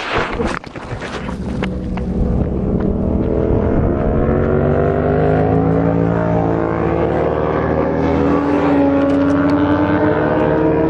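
Vehicle engine running and accelerating, its note rising slowly and steadily in pitch over several seconds. The first couple of seconds are a rushing noise with a few sharp knocks.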